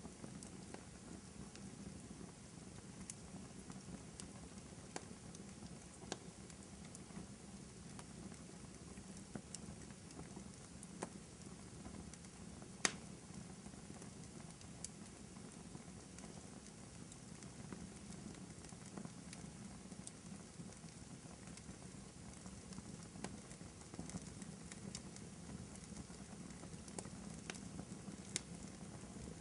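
Wood fire crackling in a fireplace: a low, steady rumble with scattered small snaps and pops, one sharper crack about 13 seconds in.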